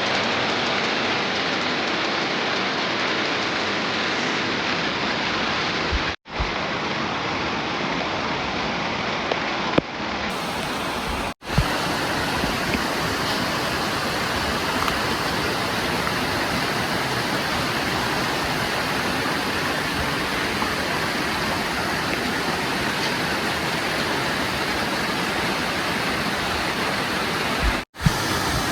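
Steady rush of falling water from a waterfall, an even noise with no pattern, broken by three brief gaps where the recording cuts.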